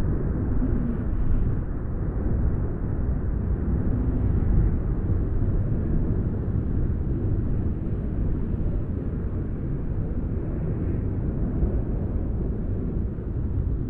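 Wind blowing in a steady, low rushing sound with gentle swells.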